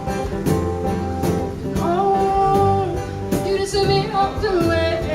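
Live acoustic country song: acoustic guitar strummed with a cajon keeping the beat, and a voice singing long held notes from about two seconds in.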